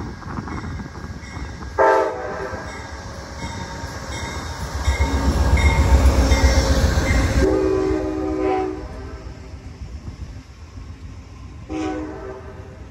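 Train passing with its locomotive horn sounding three times: a short blast about two seconds in, a longer one around eight seconds and a short one near the end. The loudest part is the rumble of the train going by in between.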